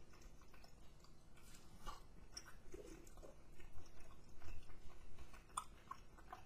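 A man chewing chicken wings close to the microphone, with faint scattered clicks and small crunches that come a little louder and closer together in the middle.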